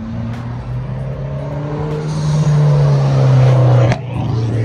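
Modified Mitsubishi Lancer sedan accelerating hard past, its engine note rising in pitch and growing louder, then dropping sharply with a crack just before it passes.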